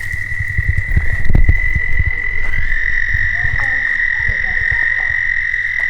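A frog chorus: a steady high-pitched trill over many low, rapid croaks.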